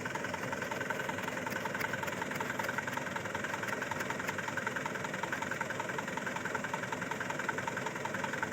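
Truck engine idling steadily, with an even, fast pulse.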